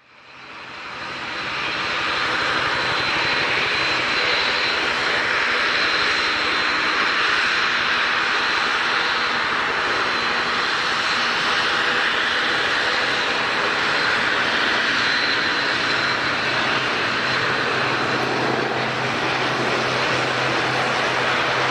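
Airliner engines running steadily. The sound fades in over the first two seconds, then holds at an even level with a thin high whine over the noise.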